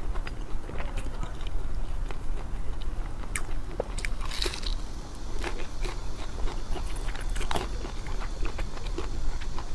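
Close-miked eating: a person biting and chewing food, with scattered crunchy clicks and crackles and a couple of louder bites.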